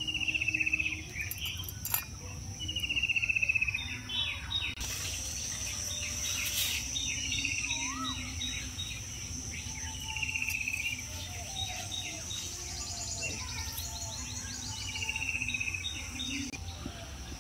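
A bird repeating a short, falling, trilled call every few seconds over a steady high-pitched insect drone, with a few sharp knocks now and then.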